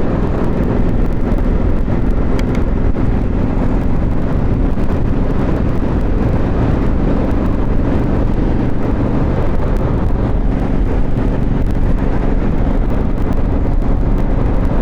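Motorcycle cruising at a steady speed: the engine holds constant revs under loud, steady wind rush on the rider's lavalier microphone.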